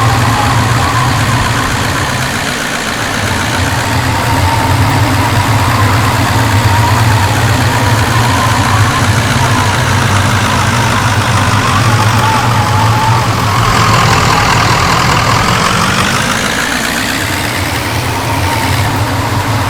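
A vehicle engine running steadily with a low hum. In the last few seconds a higher tone dips and then rises in pitch.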